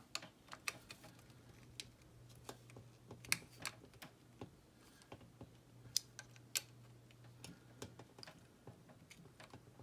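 Faint, irregular light clicks and taps of small model-kit parts and a small screwdriver being handled during assembly, over a faint steady low hum.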